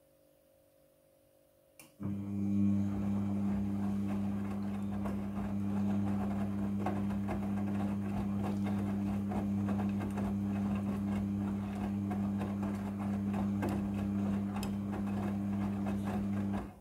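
A small electric machine starting just after a click about two seconds in, running steadily with a low hum and a dense rattle, then stopping abruptly near the end.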